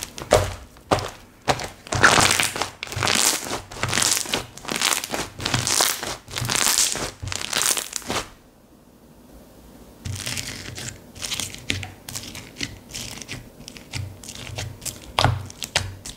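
Slime being squeezed and pressed by hand, giving runs of crackling, crinkly pops. The crackling stops for a moment about eight seconds in, then starts again more softly.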